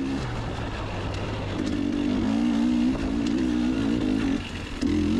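Two-stroke dirt bike engine running on the trail, its pitch rising and falling slightly with the throttle.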